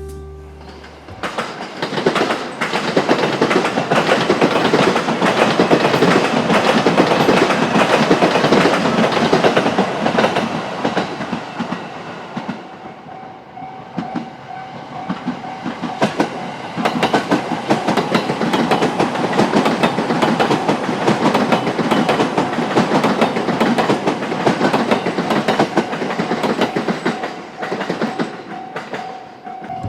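Electric train running past on the JR Togane line, its wheels clattering rapidly over the rails. The sound swells about a second and a half in and dips briefly around the middle. A faint steady whine comes in during the second half.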